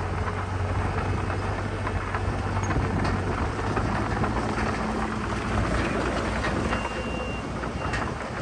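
Heavy diesel earthmoving machinery running steadily, under a constant crackle and clatter of rock and dirt being pushed and spread.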